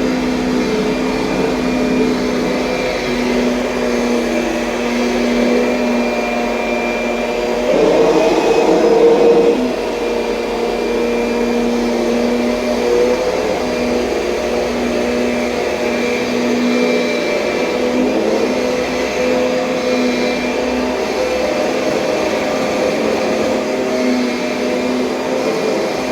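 A 2007 Kirby Sentria upright vacuum cleaner running with a steady motor hum. For a couple of seconds about eight seconds in it grows louder and rougher, then settles back.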